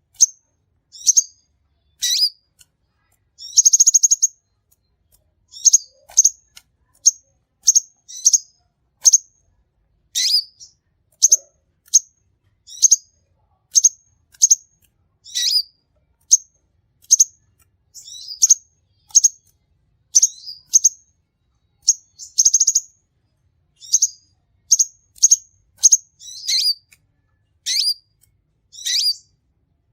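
Sunbird ('kolibri ninja') calling: sharp, high chirps repeated about once a second, broken twice by a longer buzzy trill.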